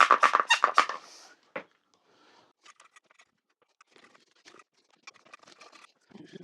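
Bicycle frame being cleaned with a foam cleaner and cloth: a quick run of brisk swishing strokes over about the first second stops sharply, then only faint rubbing and light taps follow.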